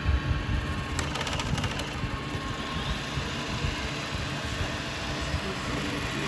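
Steady mechanical motor hum, with a short run of clicks about a second in.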